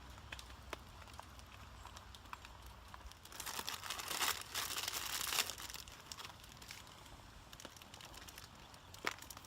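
A crinkling, rustling burst of about two seconds near the middle, among scattered small ticks and crackles.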